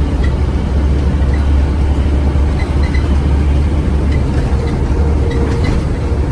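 Scania OmniCity bus heard from inside, its engine running under way with a deep, steady drone. Small ticks and rattles sound at irregular moments over it.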